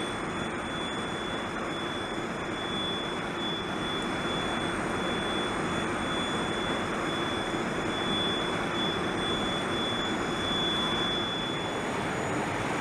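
Jet aircraft engine noise holding steady: an even rushing sound with a thin high whine over it.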